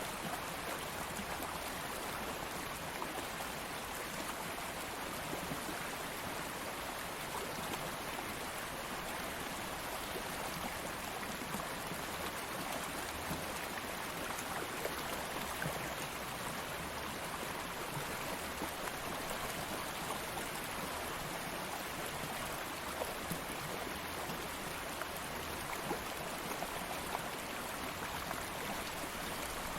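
Stream water flowing steadily over stones, an even rushing with fine bubbling and splashing.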